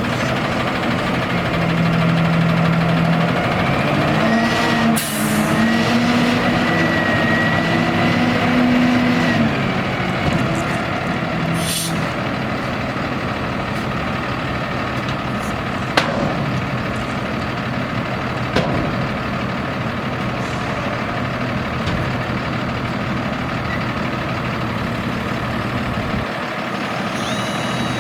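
Dump truck's Cummins 6.7 diesel engine idling steadily. Over about the first ten seconds a pitched drone and a faint whine ride on top of it, and short bursts of air hiss come around five and twelve seconds in.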